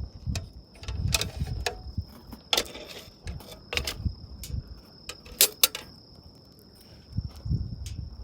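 An insect keeps up one steady high-pitched trill while sharp clicks and knocks of gear being handled come and go, several of them close together around the middle, with a low rumble on and off.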